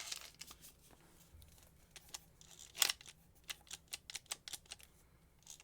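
Scattered light clicks and brief scrapes from handling a Warrior 4-1/2 inch angle grinder and its parts, with one sharper click about three seconds in.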